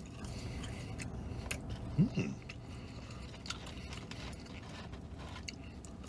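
A man chewing crispy french fries, with small clicks and crackles from the paper fry carton over a low steady hum. A brief rising vocal 'mm' comes about two seconds in.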